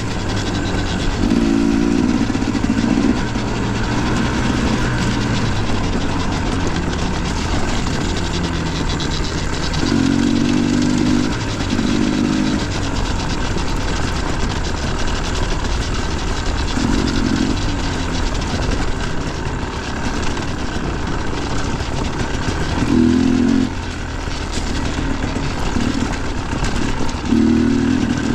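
Dirt bike engine running under way, revving up and falling back repeatedly, with a surge of higher revs every few seconds over a steady low rumble.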